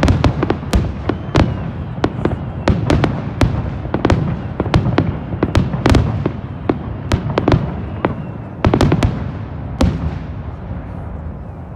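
Fireworks display: many aerial shells bursting in quick succession, sharp bangs over a continuous low rumble, thinning out in the last couple of seconds.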